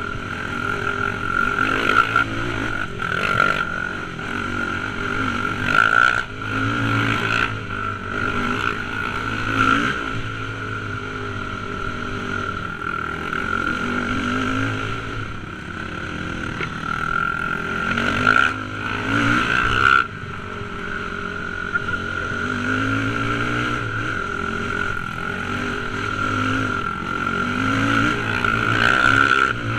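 Dirt bike engine heard from the rider's helmet, the revs climbing and dropping again and again as it rides a rough, rocky trail, with occasional knocks from the bumps.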